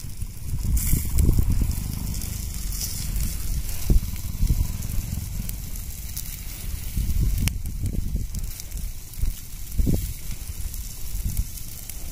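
Wind buffeting the microphone as an uneven low rumble, over the faint crackle of an open wood fire, with a few sharp clicks.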